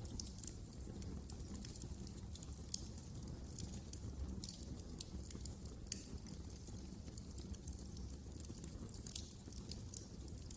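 Wood fire crackling in a fireplace: irregular sharp snaps and pops over a steady low rumble of burning.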